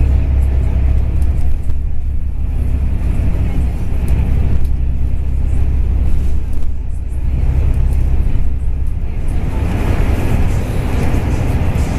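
A bus on the move, heard from inside: a steady low engine rumble with road and tyre noise that swells and eases every few seconds.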